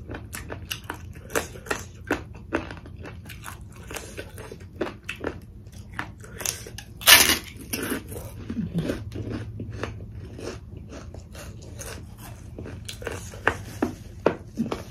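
A crisp snack being bitten and chewed: sharp crunches several times a second, with one louder crunch about seven seconds in.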